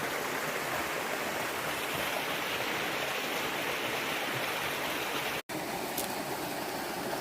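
Steady rushing of flowing water, an even noise without rhythm, broken by a sudden drop to silence for an instant about five seconds in.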